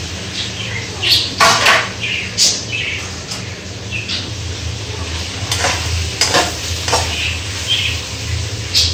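Boiled shredded chicken and potatoes sizzling in hot oil in a wok, with several sharp knocks and clinks of dishes and utensils spread through it.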